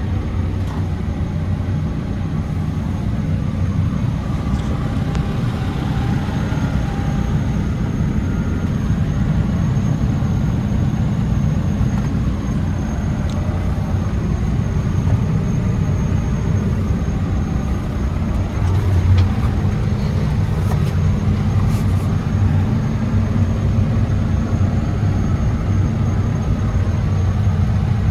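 Deere 410L loader backhoe's 4.5-litre turbo diesel engine running steadily, with a few faint ticks about two-thirds of the way through.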